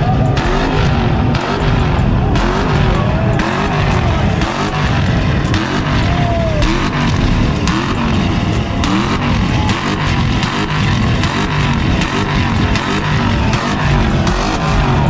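Car engines revving hard against a two-step launch-control limiter, the pitch rising and falling over and over. Dense crackling and popping comes from the exhausts: backfires that throw flames.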